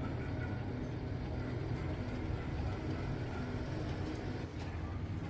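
A steady low mechanical rumble, like a motor or engine running.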